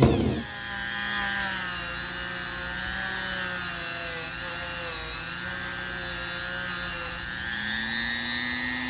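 Electric power tool motor running at high speed, its pitch dipping and recovering slightly as it is loaded against the work, with a short scraping burst at the very start.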